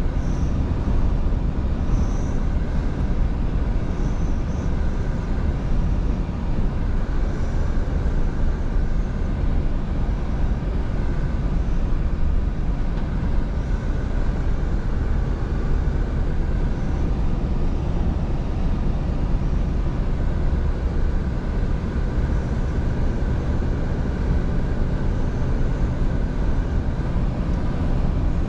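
Scania V8 truck driving at a steady cruise: a continuous low drone of engine and road noise that holds level throughout.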